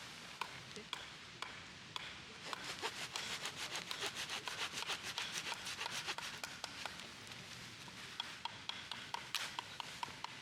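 Rapid scraping strokes, several a second, for a few seconds in the middle, with scattered light taps before and after.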